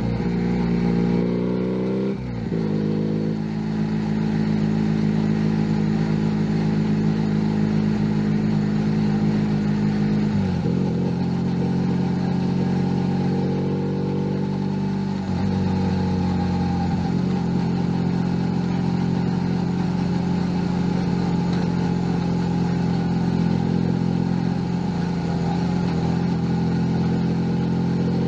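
Junak M11 Cafe's 125 cc engine running under way. The engine note climbs over the first two seconds and then drops sharply. It holds fairly steady, dips again about ten seconds in, rises and falls again around fifteen seconds, and runs steadily to the end.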